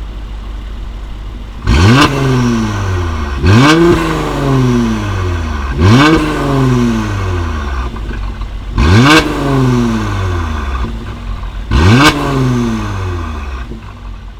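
Mercedes-AMG GLC43's twin-turbo V6 through an Armytrix valvetronic exhaust, idling and then blipped five times. Each rev rises sharply and falls back more slowly toward idle.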